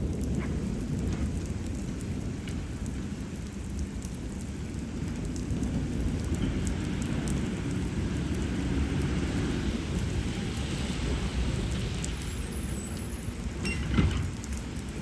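Steady heavy rain falling, with a low rumble of thunder underneath. A sharp, louder crack near the end.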